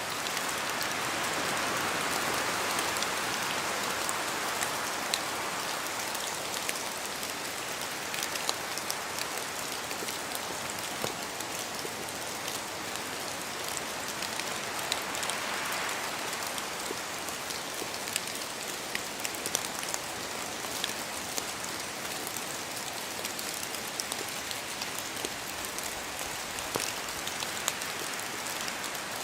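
Rain falling in a spruce forest: a steady patter with scattered sharp drips of drops falling from the trees, and wind swelling through the branches twice, near the start and about halfway.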